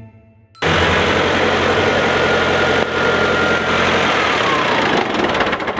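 Old tractor's engine running loud and steady, cutting in suddenly about half a second in, with a faint whine that drops in pitch about four seconds in.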